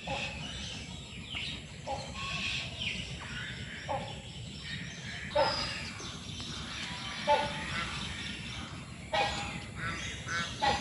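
Many birds calling and chirping at once, with a sharp, falling, louder call breaking through about every two seconds.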